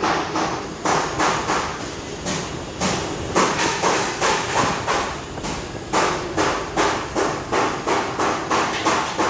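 Repeated hammer blows, about two to three a second, with a short pause about five seconds in.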